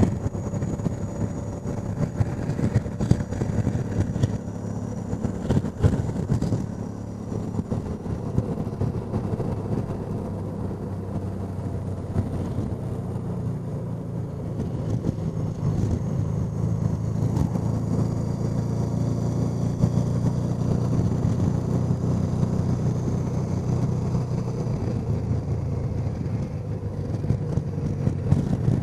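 Honda Deauville NT650V V-twin motorcycle engine running steadily at road speed, with wind noise over the microphone and a few short knocks in the first seven seconds or so.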